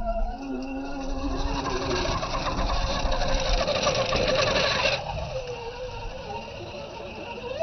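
Small electric motors and gearboxes of radio-controlled trucks whining, the pitch rising and falling with the throttle. A louder, harsher stretch cuts off suddenly about five seconds in.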